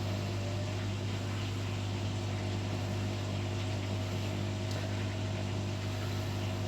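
Washing machine running, giving a steady low hum with a few fixed tones above it.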